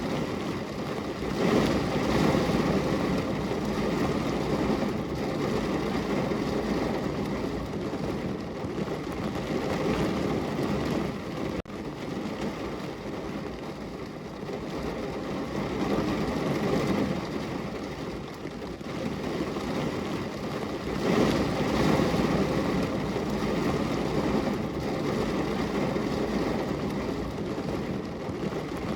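Heavy rain falling in a steady, dense roar that swells louder twice, a couple of seconds in and again about two-thirds of the way through.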